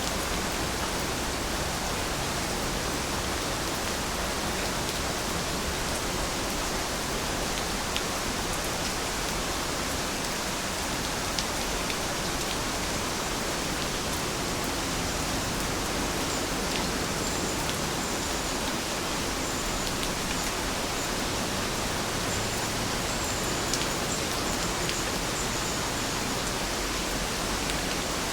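Steady rain falling: an even hiss with scattered drop ticks. A few faint high-pitched chirps come in the second half.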